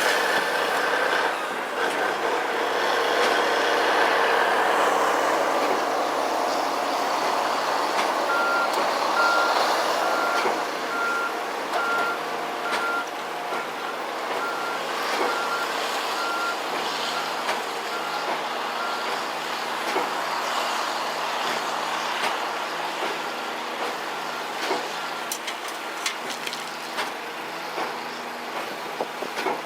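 Truck engine running while a reversing alarm beeps steadily, about two beeps a second, starting about eight seconds in and growing fainter later on.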